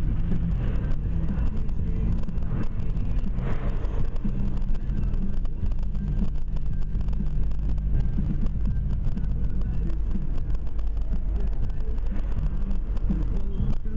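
Car engine and road noise picked up inside a moving car, a steady low rumble with a shifting engine drone.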